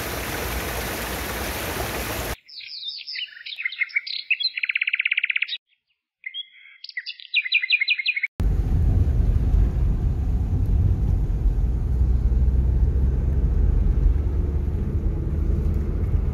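A couple of seconds of even rushing noise cut off abruptly, then a songbird singing in short chirping phrases with a fast trill near the middle, separated by brief silences. About eight seconds in, a loud, steady low rumbling noise starts and continues.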